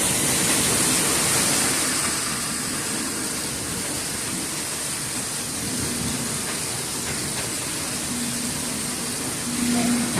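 Sweet potato washing machine running: a steady rushing, water-like noise with a low rumble. A faint steady hum joins it about six seconds in.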